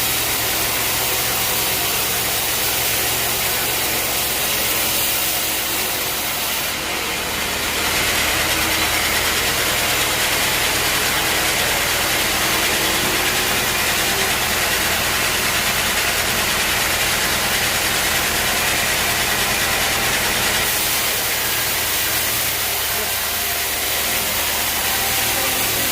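Sawmill machinery running steadily: a low, even engine-like drone under a broad hiss. The hiss grows louder and brighter from about seven seconds in until about twenty-one seconds in, then eases back.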